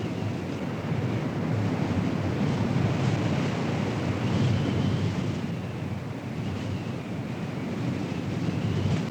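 Strong storm wind buffeting the microphone in a loud, steady rush. Behind it, a faint siren tone slowly rises and falls, once every few seconds.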